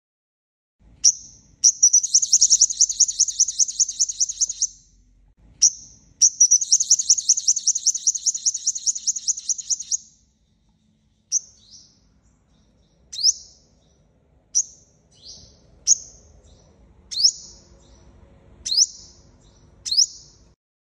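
Five-coloured sunbird singing: sharp, high, sweeping chips and two long rapid trills of three to four seconds each in the first half, then a run of single sharp call notes about one every second and a half.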